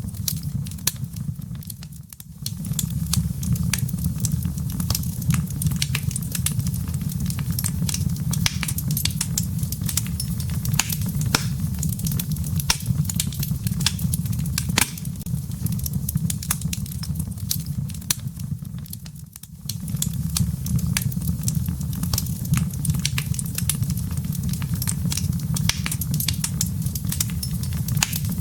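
Wood fire crackling in a fireplace: a steady low rumble with frequent sharp pops and snaps of burning firewood. The sound dips away briefly twice, about two seconds in and again about two-thirds of the way through.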